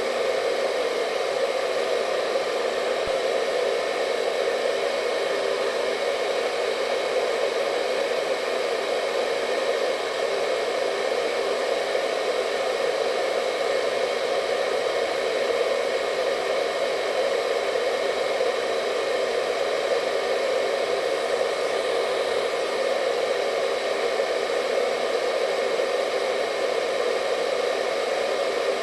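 Hair dryer running steadily: an even whooshing rush of air with a motor hum.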